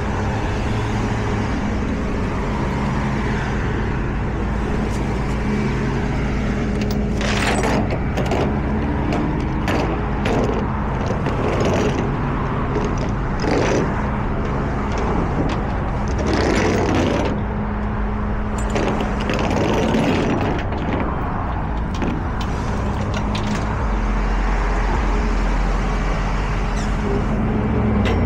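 Truck engine running steadily, its low hum stepping up and down in pitch a few times, with several brief rushes of noise over it.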